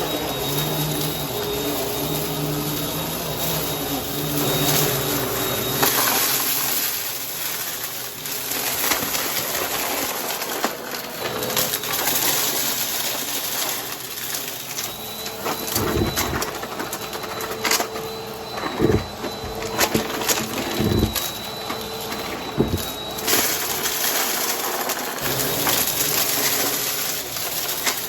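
Vacuum cleaner running with a steady high whine and a hum that shifts in pitch, crackling as it sucks up crunchy debris. Several sharp knocks and crunches come in a cluster past the middle as bigger pieces are picked up.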